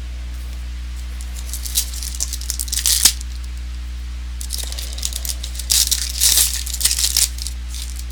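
Trading cards and their plastic wrappers or sleeves being handled: two spells of crinkling and rustling over a steady low electrical hum.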